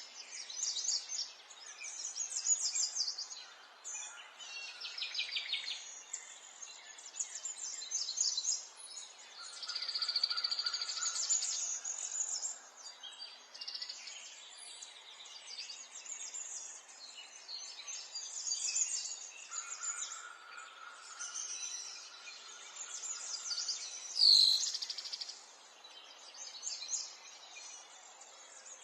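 Several small songbirds chirping and trilling over a faint steady background hiss, with a steady held note heard twice in the middle. About three-quarters of the way through there is one sudden sharp sound, the loudest in the stretch.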